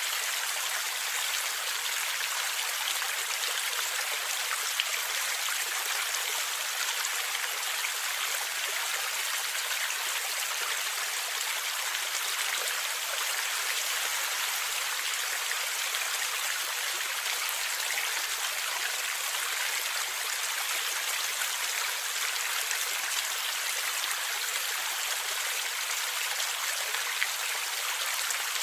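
A stream flowing and gurgling steadily, a constant rush of water with no breaks.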